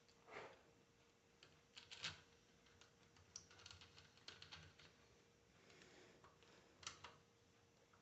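Faint, scattered clicks and light taps of small metal alternator parts being handled and fitted by hand, with the sharpest knocks about two seconds in and again near the end.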